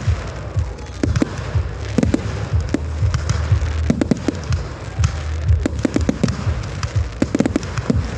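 Fireworks going off: a rapid, irregular run of bangs and crackles over a steady low rumble.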